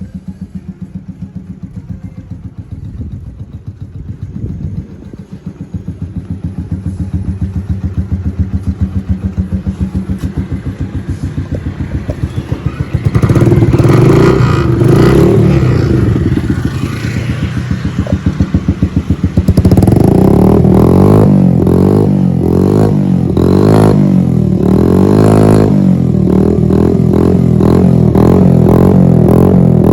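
Kymco K-pipe's single-cylinder engine running through an aftermarket SC exhaust, ticking over at first and then revved up, louder from about 13 seconds in and again from about 20 seconds in, where it stays high.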